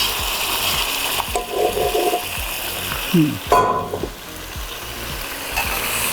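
Hot oil sizzling in a kadai as food fries, a steady hiss, with a single knock about three and a half seconds in.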